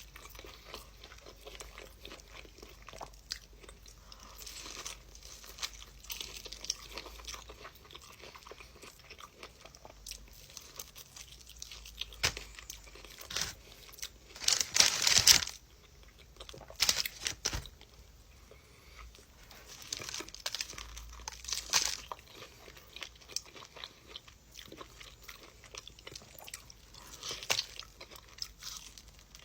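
Close-miked eating: a person biting into and chewing crunchy food, a steady run of crackly crunches with several louder bites, the loudest about halfway through.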